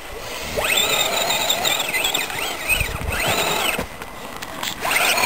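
Scale RC rock crawler's electric motor and gearbox whining, the pitch rising and falling in arcs as the throttle is worked. It stops briefly about four seconds in, then starts again.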